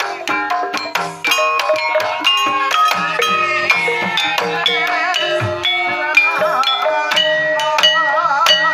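Banyumasan gamelan music for tayub: struck metal keyed instruments ringing in a dense, steady pattern. From about halfway through, a wavering, sliding melodic line rises above them.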